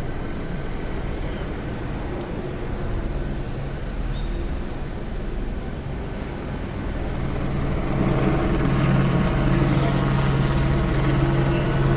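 Street vehicle noise: a steady low engine rumble that grows louder about seven seconds in, with a steady low hum over it.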